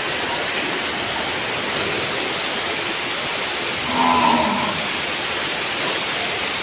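A cow mooing once, a short call about four seconds in, over a steady rush of water, plausibly floodwater.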